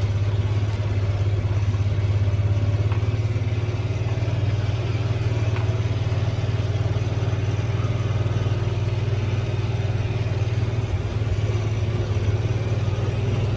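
A vehicle engine running steadily at low speed, a constant low drone with faint clattering over it.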